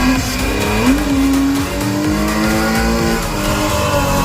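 Drift car engine running hard at high revs while sliding, its pitch climbing about a second in, holding, then dropping back a little after three seconds.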